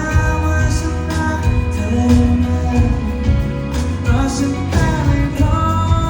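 A Thai indie pop band playing live: a singer's voice over electric guitars, bass and drums, loud and steady throughout.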